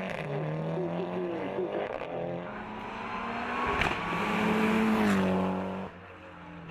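Hillclimb race car accelerating hard up through the gears: the engine note climbs and drops back at each upshift, gets loudest about five seconds in, then falls away sharply near the end.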